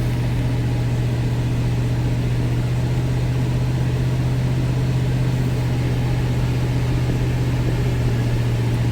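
Steady low drone of a car driving, heard from inside the cabin: engine and road noise at an even speed.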